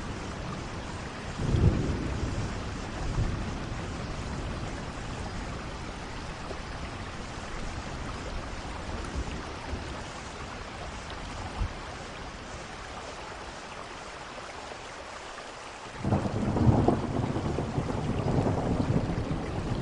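Steady rain falling, with thunder: a short rumble about a second and a half in, and a louder, longer rumble that starts suddenly near the end.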